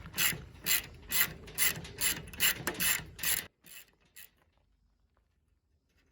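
Hand ratchet wrench clicking as a headlight bolt is backed out, about two strokes a second. It stops about three and a half seconds in.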